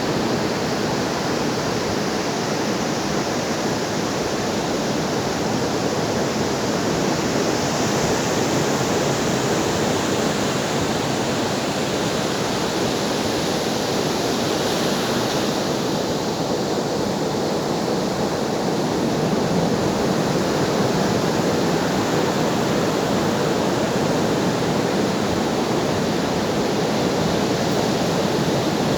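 Ocean waves breaking and washing onto a shore in a steady, continuous rush, with a slow swell in the surf about a third and about halfway through.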